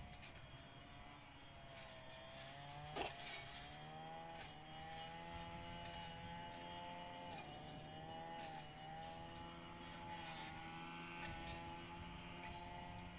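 Grumman EA-6B Prowler's twin J52 turbojets running at low power, a steady whine whose pitch wavers gently up and down. One sharp click about three seconds in.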